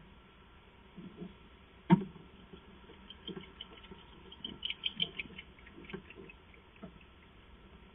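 Knocks, bumps and scuffling inside an owl nest box, with one sharp thump about two seconds in and a run of short high clicks around the middle.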